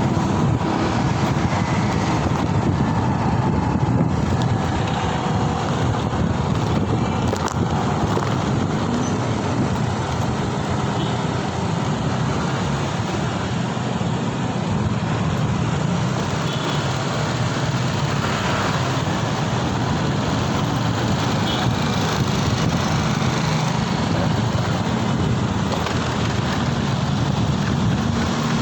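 Steady road traffic noise heard from a moving vehicle during a city ride: a continuous low rumble of engines and tyres with no breaks.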